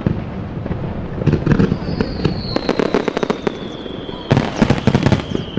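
Aerial fireworks bursting in dense rapid crackles, in two clusters about half a second and four seconds in, over a low rumble. From about two seconds in, a single high whistle slides slowly down in pitch.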